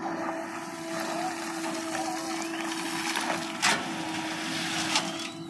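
Diesel engine of earthmoving machinery running steadily with a held whine, and two sharp metallic knocks, one just past the middle and one near the end.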